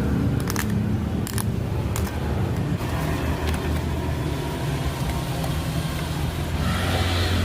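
An engine idling steadily, with a few sharp clicks in the first second and a half and a short hiss near the end.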